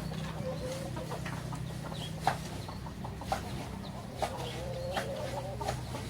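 Chickens clucking, with short sharp calls or knocks a few times, the loudest about two seconds in, over a steady low hum.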